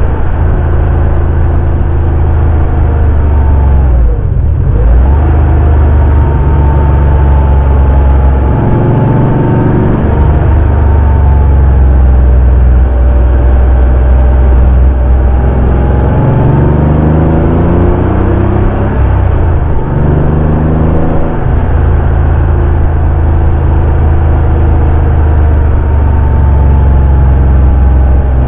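Porsche 911 (964) air-cooled flat-six engine driving under load. Its revs climb and drop several times, with short breaks at the gear changes.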